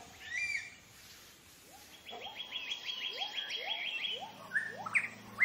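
Forest birds calling: a short chirp, then a rapid trill of about seven dry notes a second alongside a run of short rising calls, with louder chirps near the end.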